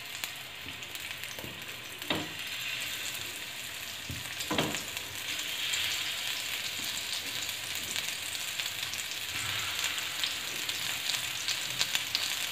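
Minced-mutton kebabs sizzling as they shallow-fry in hot mustard oil. The sizzle grows fuller as more kebabs are laid into the pan, with two short knocks in the first half.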